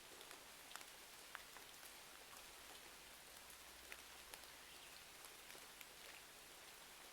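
Faint steady rain hiss with scattered small crackles and ticks, the mix of rain and a crackling wood fire.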